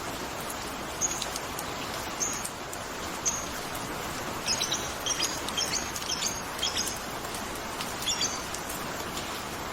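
Small birds chirping, short high calls at first spaced about a second apart, then a quick cluster of chirps in the middle and a few more near the end, over a steady background hiss.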